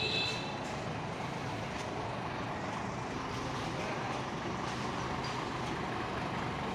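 Steady running noise of a large truck's engine, an even rumble with no changes.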